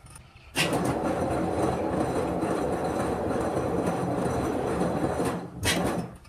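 A loud machine switches on abruptly about half a second in, runs steadily with a rough, noisy rumble, and cuts off shortly before the end.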